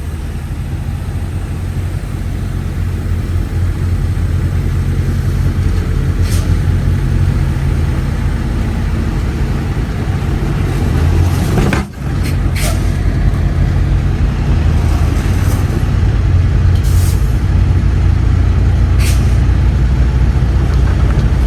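Semi truck's diesel engine running steadily under load, with a few short hisses of air from the air brakes.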